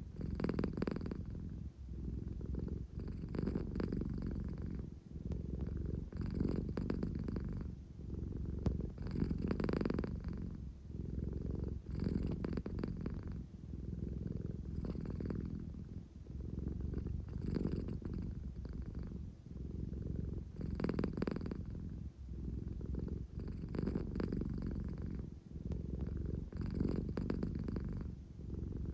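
American Shorthair cat purring close up, a steady low rumble that swells and eases with each breath, about every second and a half.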